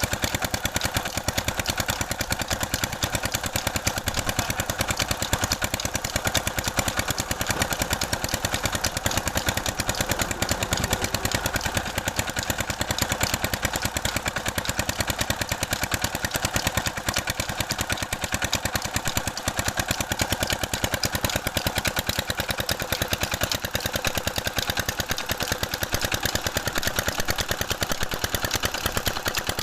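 Diesel engine driving a tube well water pump, running steadily with a rapid, even beat of exhaust pulses.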